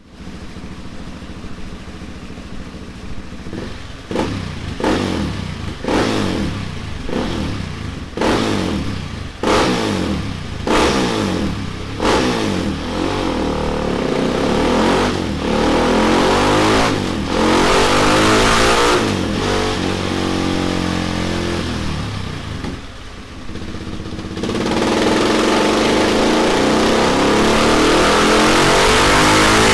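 Husqvarna Vitpilen 701's single-cylinder engine running through a Delkevic oval carbon fibre end can, blipped sharply about once a second, then revved up and down, and from about 24 seconds in held at high revs in a louder sustained run.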